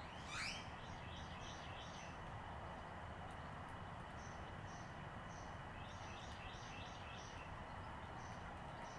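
Outdoor bird sounds over a steady background hiss. About half a second in, a bird gives a quick call that sweeps steeply downward, the loudest sound. Later come runs of short, high chirps, once early on and again through the second half.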